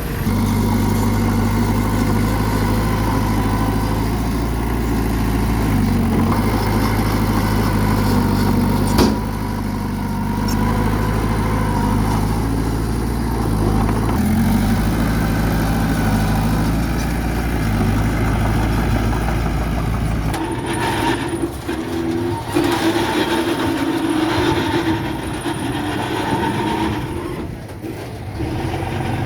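Heavy diesel engine of a bulldozer running under load, a steady deep hum whose pitch shifts a few times. About twenty seconds in the deep hum drops away and a rougher, uneven machine noise with a few knocks carries on.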